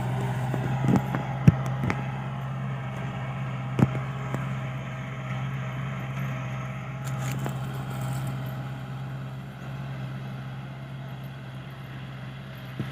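Kubota L5018 tractor's diesel engine running steadily under plowing load, with a few sharp knocks about one and a half and four seconds in; it grows a little fainter in the second half.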